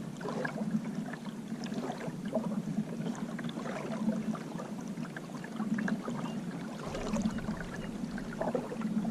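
Water splashing and trickling against the hull of a Hobie PA kayak under way, with a low swell that repeats about every second and a half.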